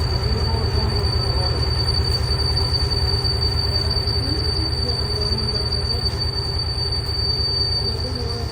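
Heavy boring machine cutting a steel pipe: a steady, loud low rumble of the machine with a thin, steady high-pitched whine over it.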